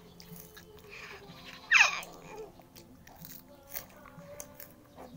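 Children chewing and biting a snack, with small crunching clicks. About two seconds in, a short high-pitched cry slides steeply down in pitch.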